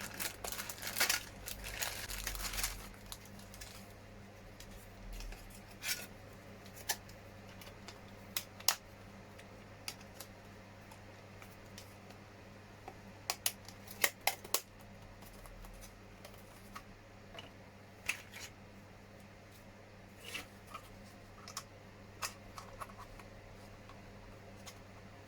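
Small hard-plastic model truck body parts being handled and pressed together: a rustle for the first couple of seconds, then scattered sharp clicks and taps. A low steady hum runs underneath.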